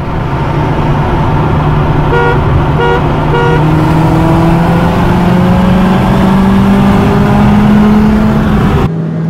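Lada Granta 1.8's engine pulling hard under full-throttle acceleration, heard from inside the cabin, its note rising slowly and steadily. Three short beeps sound a couple of seconds in, and the engine sound breaks off abruptly near the end.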